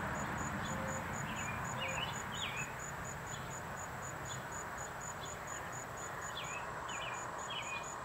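Short, sharp bird chirps in small groups, about a second in and again near the end, over an insect's very high pulsed call repeating about twice a second and a steady background hiss.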